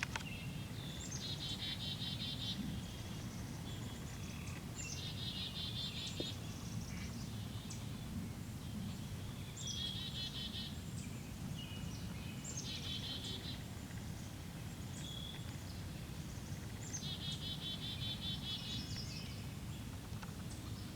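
A songbird singing the same short song over and over: a high opening note, then a fast trill lasting about a second, five times, every three to four seconds. Under it runs a steady low rumble.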